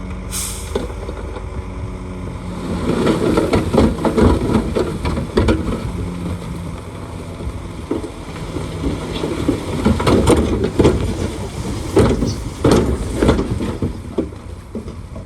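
Bulldozer's diesel engine running with a steady hum, then from a couple of seconds in, loud irregular clanking and crunching as the machine works under load, its steel tracks and blade pushing fill material. A short hiss sounds just after the start.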